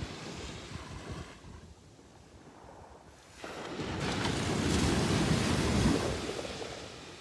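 Sea waves on a beach. After a lull, a wave breaks and washes in from a little before halfway, grows loudest about three-quarters of the way through, then fades.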